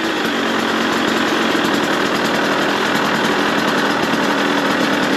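KTM 150 two-stroke dirt bike engine idling steadily just after a cold start, not yet warmed up.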